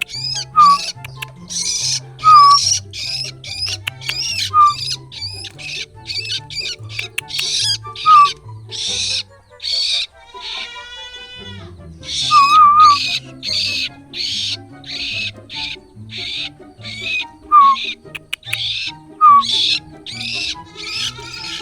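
Long-tailed shrike (cendet) chick giving harsh, rasping begging calls over and over, about two a second, with background music underneath.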